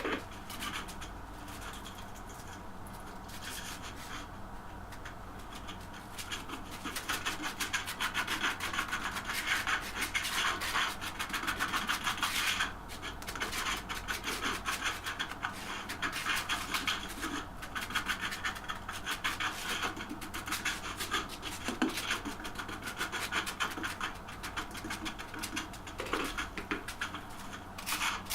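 Rapid, repeated rubbing strokes of hand work on a hard surface, growing louder about six seconds in.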